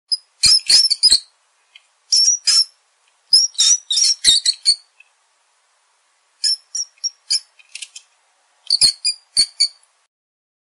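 Mice squeaking: short, high-pitched chirping squeaks that come in about five quick runs, with silence in between.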